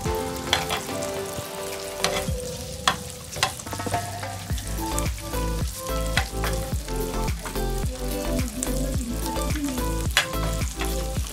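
Boiled beef sizzling in melted butter in a frying pan, stirred with a metal spoon that clicks and scrapes against the pan. Background music with a bass line that comes in about halfway through.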